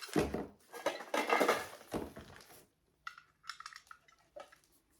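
Flea-market items being handled: about two and a half seconds of rustling, then a series of light clinks and taps as metal pieces are moved and set down.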